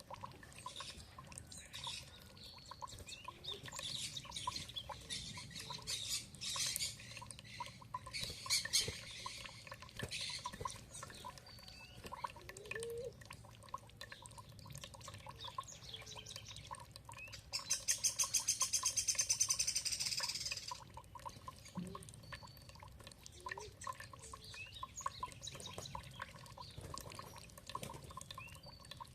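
Several songbirds chirping and calling over a steady trickle of running water. Past the middle comes a fast, rapid trill of about three seconds, the loudest sound.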